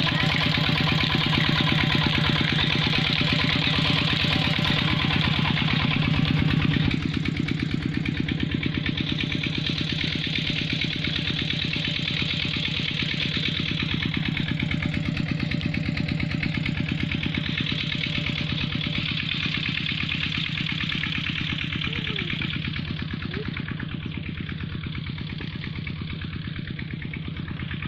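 Stationary Petter diesel engine driving an irrigation water pump, running steadily with an even, rapid firing beat. It becomes somewhat quieter about seven seconds in.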